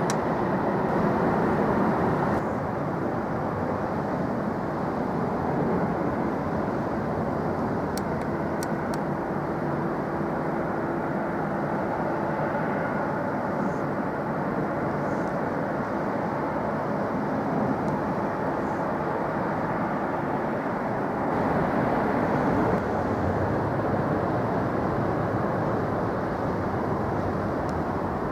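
Steady rumble of jet airliner engines, with a faint steady hum through the middle and the level shifting slightly twice.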